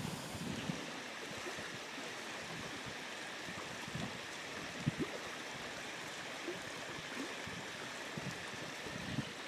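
Steady wind noise buffeting the microphone outdoors, with a few faint scattered knocks.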